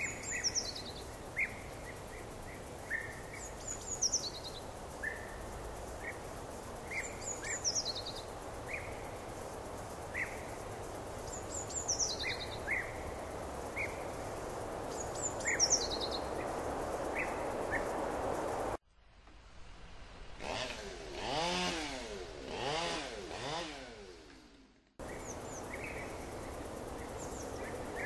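Outdoor birdsong over a steady background hiss: one bird repeats a short, high, falling phrase about every four seconds, among scattered short chirps. About two-thirds of the way through, this cuts to a quieter stretch of several seconds holding a few arching tones that rise and fall, then the birdsong and hiss return.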